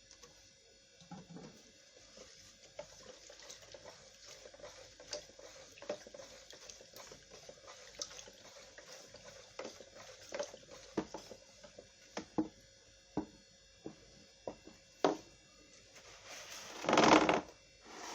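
Liquid ingredients being poured and mixed in a bowl, with scattered light knocks of containers and utensils and a louder rush of noise near the end.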